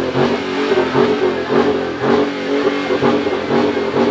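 A car engine revving, held at fairly steady high revs.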